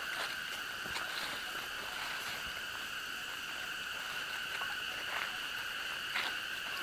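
Steady, unbroken high drone of an insect chorus in tropical forest, holding two even pitches, with a few faint scattered crackles over it.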